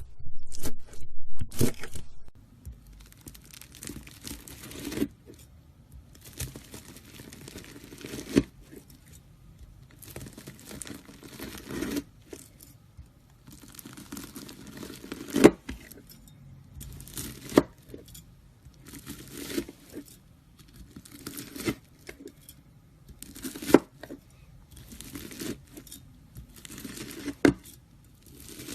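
A knife cutting through crunchy slime again and again: a long loud stretch of crackling at the start, then short crackling cuts about every one to two seconds, several ending in a sharp snap.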